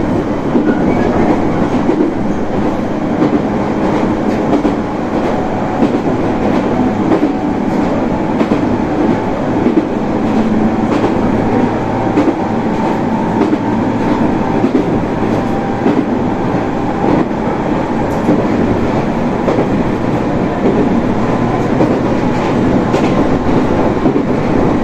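Running noise of a moving local train heard from inside the carriage: a steady, loud rumble of the wheels on the rails.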